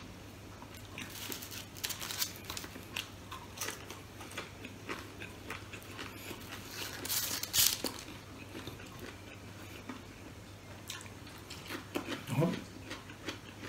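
A person chewing crispy fried food with the mouth close to the microphone: irregular crisp crunches and wet mouth clicks, thickest about seven seconds in, with a brief murmur near the end.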